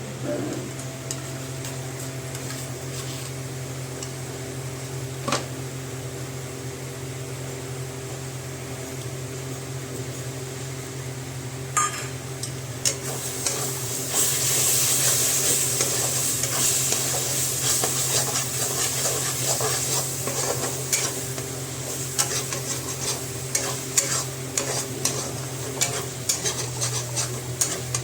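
Food sizzling in a pan while a metal spoon stirs and scrapes against it, with frequent clicks and knocks. The sizzle grows louder about halfway through, and a steady low hum runs underneath.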